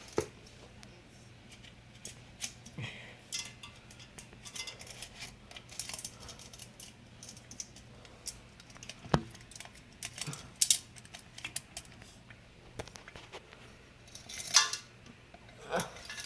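Scattered light metallic clinks and rattles from small metal ceiling-fan parts being handled, over a faint steady low hum.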